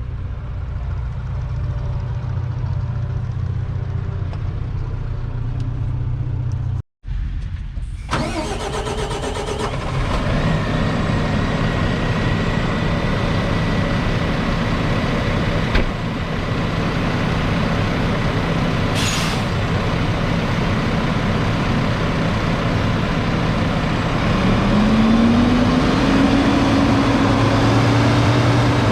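Fendt 936 Vario tractor's 9.0-litre six-cylinder diesel running steadily, cutting out sharply just before seven seconds in and coming back louder and fuller about a second later. Near the end the engine note rises and then eases back down.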